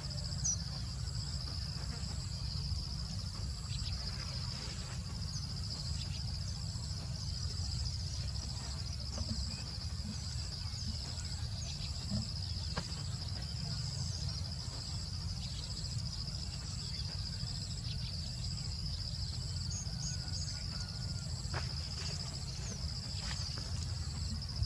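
Steady insect chorus, a high even trill with a faster pulsing trill above it, over a low steady rumble. A few short bird chirps come through near the start and again about twenty seconds in.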